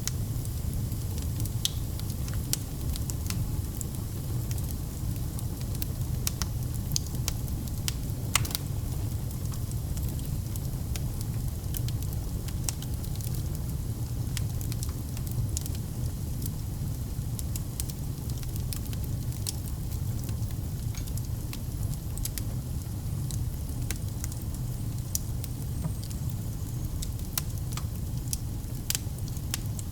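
Wood fire burning in a fireplace: a steady low rumble of flames with frequent sharp crackles and pops, one louder pop about eight seconds in.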